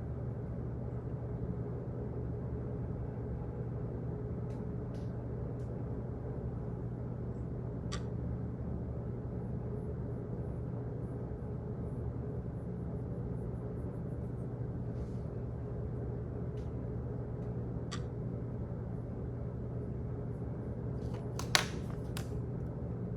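Office ambience: a steady low hum with a few scattered light clicks, and a sharper click about three-quarters of the way through, the loudest sound here.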